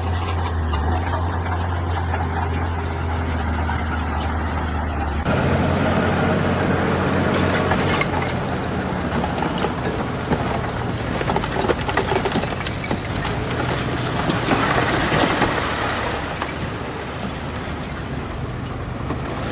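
Heavy construction machinery with a diesel engine running steadily. About five seconds in the sound turns louder and rougher, with repeated metallic clanks and rattles as the machine works.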